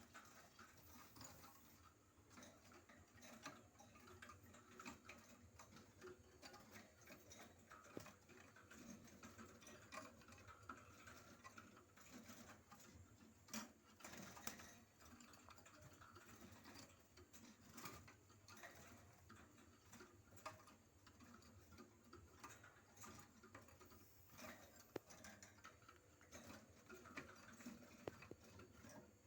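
Near silence in a quiet room, with faint, irregular small clicks and ticks.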